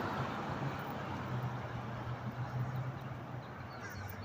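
Street background noise with a steady low hum, the wash of noise slowly fading.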